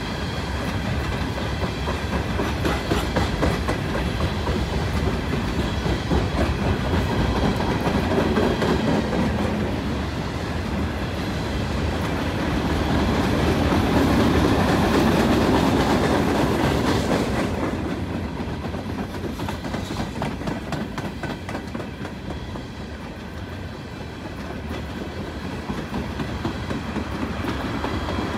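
Empty steel coal hopper cars of a freight train rolling slowly past. A steady rumble runs with wheels clacking over rail joints, and it swells louder about halfway through.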